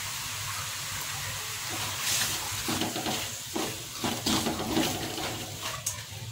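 Scrambled egg and chilies sizzling in a wok, with irregular scraping and swishing strokes from about two seconds in as a silicone spatula stirs the food around the pan.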